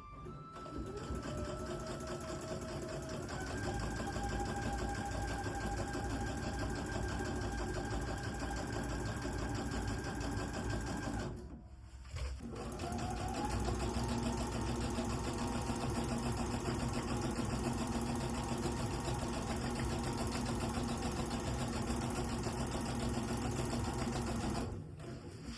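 Sewing machine stitching in two long runs, its whine climbing in steps as it gets up to speed. It stops briefly near the middle and then starts again.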